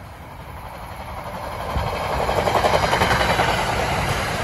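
NJ Transit commuter train approaching and passing close by, its rumble and wheel noise growing louder until it is loud about two seconds in.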